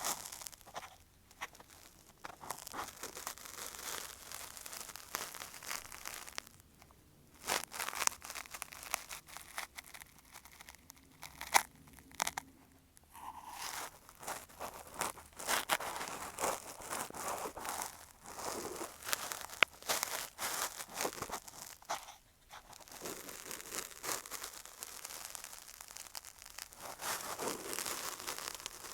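Cotton swab rubbing and scraping against an earphone microphone as a simulated ear cleaning: close, dense scratchy crackling and rustling, with a few short pauses.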